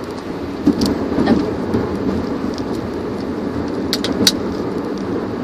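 Steady road and engine noise of a car driving, heard from inside the cabin, with a few sharp clicks about a second in and again near four seconds in.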